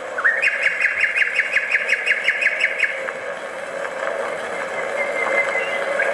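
Nightingale singing a fast run of repeated notes for about three seconds, over the steady drone of many bomber aircraft engines, which grows louder toward the end.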